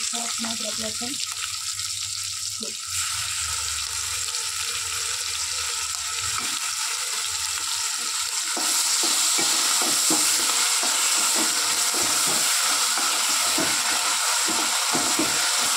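Sliced onions, green chillies and curry leaves sizzling in hot oil in a metal kadhai, stirred with a wooden spatula that scrapes the pan. The sizzle gets louder a little over halfway through, with quick, repeated stirring strokes from then on.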